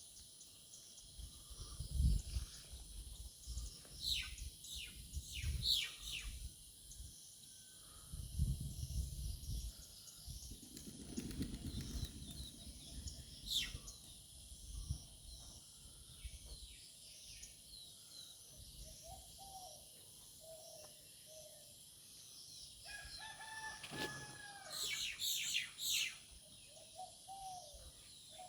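Outdoor ambience: a steady high insect drone under sharp chirping calls in short bursts, a rooster crowing about two-thirds of the way through, and wind or handling rumble on the microphone now and then.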